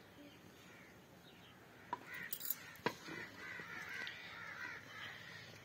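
Birds calling, a run of short repeated calls starting about two seconds in, with two sharp knocks of the metal ladle against the cooking pot, the second the loudest.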